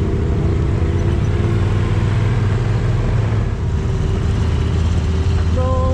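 Kawasaki KRX side-by-side's parallel-twin engine running steadily at low, even speed, heard from inside the open cab.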